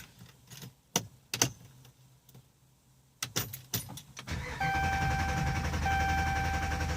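A few key clicks, then a 2013 Dodge Durango R/T's 5.7-litre HEMI V8 cranks and catches about three seconds in and settles into a steady idle. Over the idle a dashboard chime sounds a run of long even tones.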